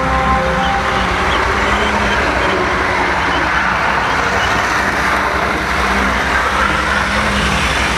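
Model train running along its track, heard close up from a flatcar behind the engine: a steady, loud rumble of wheels on rail and the drive motor.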